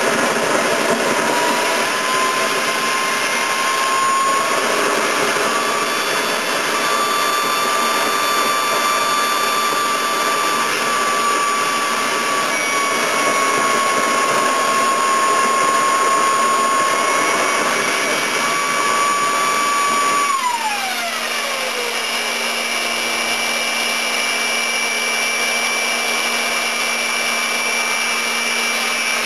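Homemade small turbojet engine running at high speed: a rushing jet noise with a thin whine near 1 kHz that wanders slightly in pitch. About twenty seconds in, the whine glides steeply down as the rotor spools down, and a steady rushing noise with a low hum goes on.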